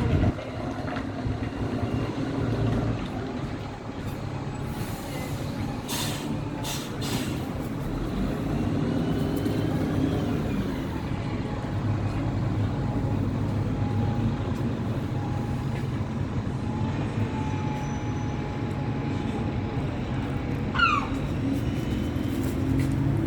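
Steady low rumble of a large engine running, with a few sharp clicks about six seconds in and a short herring gull–style squawk near the end.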